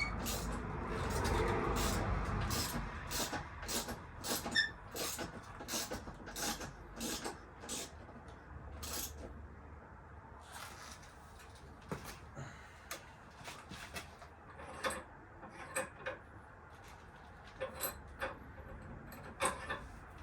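Irregular light clicks and knocks, many in a row, over a low rumble that is loudest in the first few seconds: handling sounds of parts and tools during motorcycle fender fitting.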